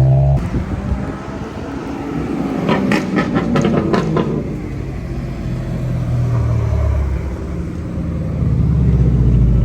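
Cars driving past with their engines and exhausts rumbling, the sound swelling as each one goes by, with a quick run of sharp cracks about three seconds in.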